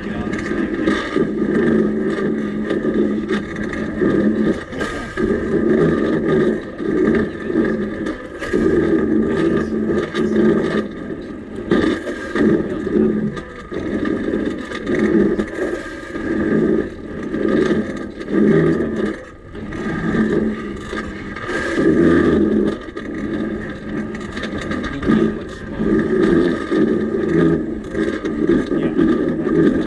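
Home-built railbike rolling along railway track, with a steady metallic ringing, a rumble that rises and falls, and scattered clicks.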